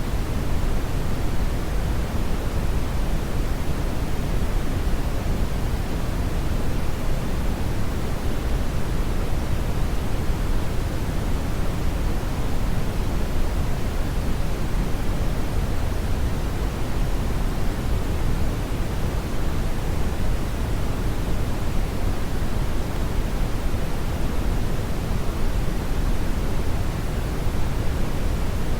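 Brown noise: a steady, even rushing hiss weighted heavily to the low end, unchanging throughout.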